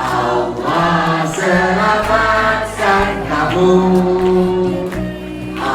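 Music: a choir of voices singing a sustained melodic phrase over steady low accompanying notes.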